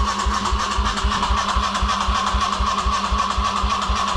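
Kawasaki KLX140R's electric starter cranking the single-cylinder four-stroke engine over steadily, with even compression thumps about five times a second over the starter whine. The engine turns over fine but never fires, a no-start the owner suspects lies in the carburetor after the bike sat with untreated fuel.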